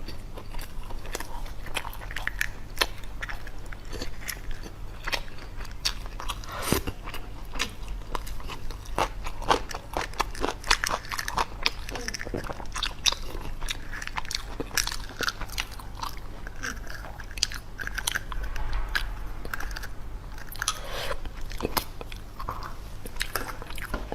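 Close-miked eating: continuous chewing with many irregular crunchy bites and wet mouth clicks.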